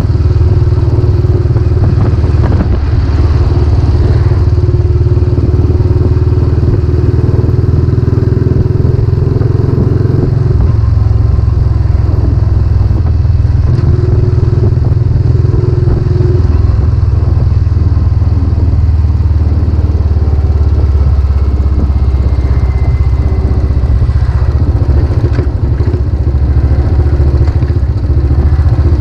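Royal Enfield Classic 500's single-cylinder engine running under way through a newly fitted exhaust silencer, a steady low exhaust note; the note changes about ten seconds in.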